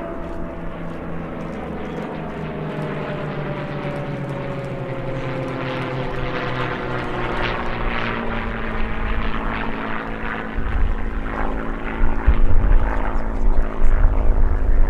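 Piston engines of WWII fighters (a Corsair, a Hurricane and a Mustang) flying past together. The propeller-engine drone falls slowly in pitch over the first several seconds, then a loud low rumble builds from about ten seconds in.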